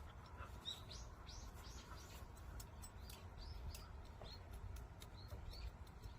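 Faint, high, short chirps repeated two or three times a second, like a small bird calling, over a low background rumble.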